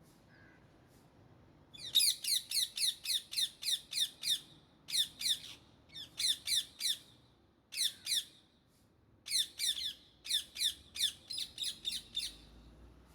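Indian ringneck parakeets calling in rapid bouts of high, falling squawks, about four a second, starting about two seconds in, with short pauses between bouts.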